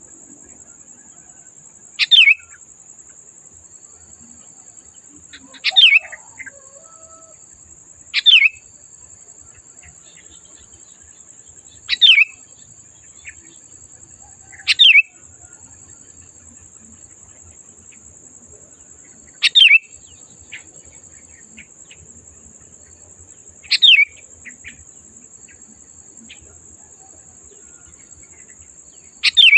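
Sooty-headed bulbul giving short, sharp calls that sweep down in pitch, eight of them spaced a few seconds apart, over a steady faint high-pitched buzz.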